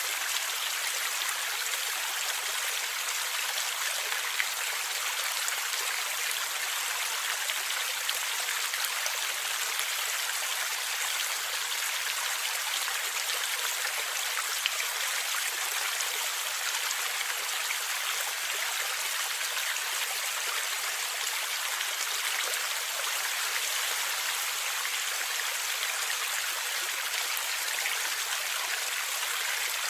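Forest stream flowing: a steady, even rush of water, bright and hissy with almost no low rumble.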